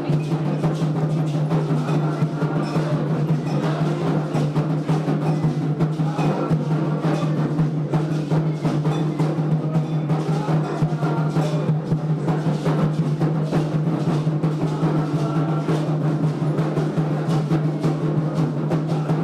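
Candomblé atabaque hand drums playing a dense, continuous rhythm, with a steady low hum underneath.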